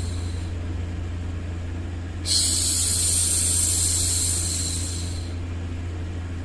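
A woman's long hushing 'shhh' for a baby, starting sharply about two seconds in and lasting about three seconds, with the tail of the previous 'shhh' fading just at the start. Underneath, a steady low rumbling white-noise bed runs on.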